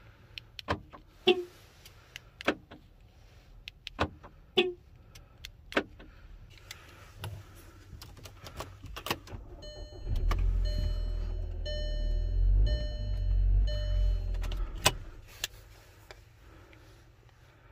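Clicks of a VW flip key and the ignition switch being worked, then the 2009 VW Tiguan's engine starts on the newly programmed key and runs for about five seconds, with a dashboard chime beeping over it. It is cut off with a click, which shows the new key is accepted by the immobilizer.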